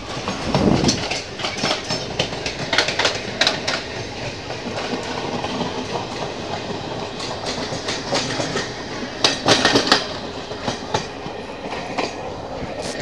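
Indian Railways passenger coaches rolling past on the next track, their steel wheels clattering over rail joints in an uneven run of clicks over a steady rush of train noise. The clatter is thickest about nine to ten seconds in.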